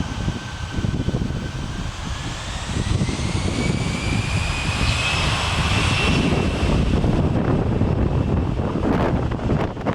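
Jet airliner engines whining, the pitch rising and the sound loudest around five to six seconds in, over heavy wind noise on the microphone.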